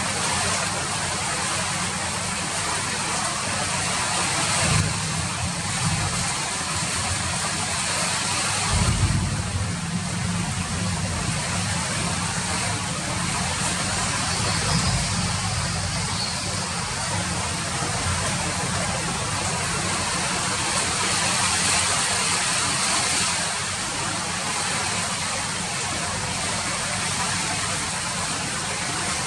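Steady rain falling, an even hiss. A low rumble rises briefly about five seconds in and again about nine seconds in.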